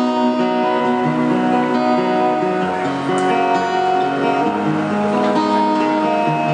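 Instrumental break in a pop ballad: guitar playing a run of held, changing notes over a steady backing, with no singing.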